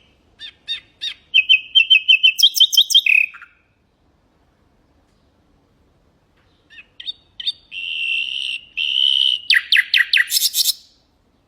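Nightingale singing two song phrases. Each opens with a few spaced notes, runs into rapid repeated notes and ends in a fast, high trill, with a pause of about three seconds between the phrases.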